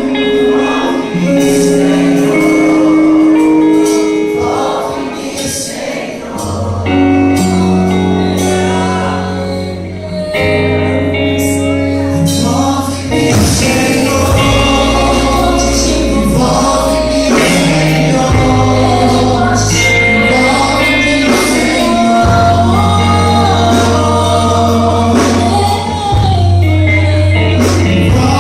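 Choir and band performing a gospel worship song, with held sung notes over a band whose deep bass notes come in about six seconds in.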